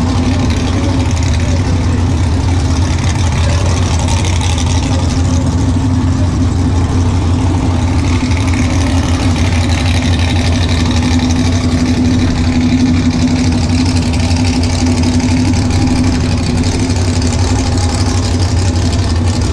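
A vehicle engine idling steadily, a loud, even low drone that neither revs nor changes.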